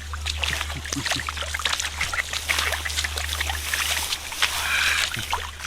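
Shallow muddy water splashing and trickling in many small irregular splashes and drips, with a fuller splash about four and a half seconds in, over a steady low hum.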